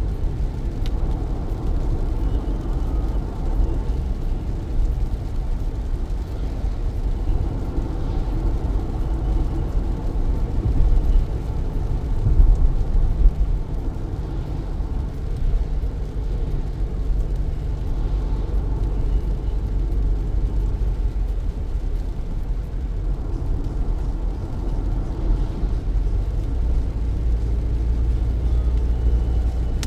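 Car driving through heavy rain: a steady low rumble of tyre and road noise, with a fainter hiss of rain above it.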